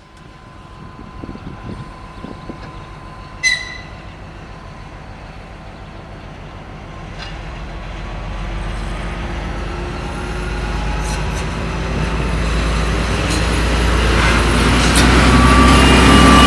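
M62 diesel locomotive running with a freight train, its deep engine sound growing steadily louder. There is a short sharp sound about three and a half seconds in, and a rising whine near the end.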